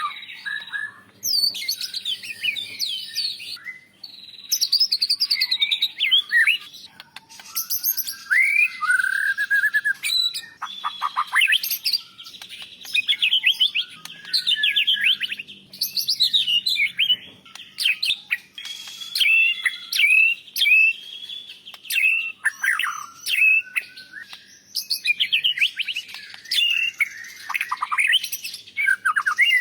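White-rumped shama (murai batu) singing a long, varied song of rapid chirps, trills and whistled glides, delivered in quick bursts with short pauses between them.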